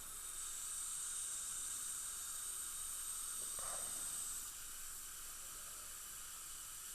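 Steady hiss from dental operatory equipment, with a higher, louder hiss that starts about half a second in and stops about four and a half seconds in.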